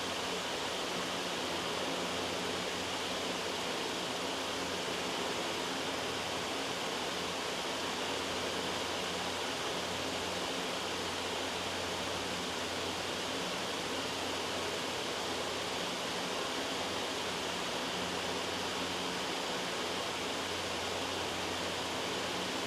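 Loud white noise: a steady, even hiss with a faint low hum beneath it.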